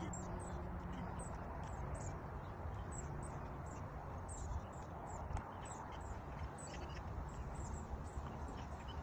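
Small birds chirping, short high notes repeating irregularly throughout, over a steady low rumble.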